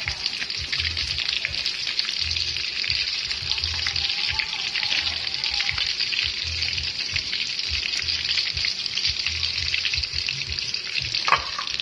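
Pork ribs deep-frying in hot oil in a metal pan: a steady sizzle with dense crackling and spitting. A brief sharp knock near the end.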